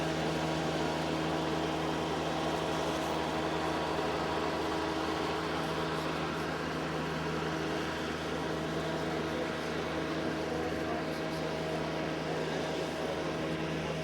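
Steady mechanical drone: an even rushing noise with a constant low hum, unchanging throughout.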